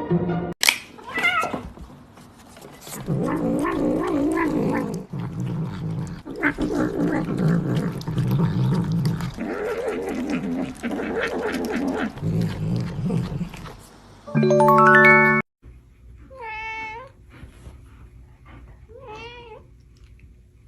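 Cats yowling and meowing over background music. Near the end, two short, quieter meows.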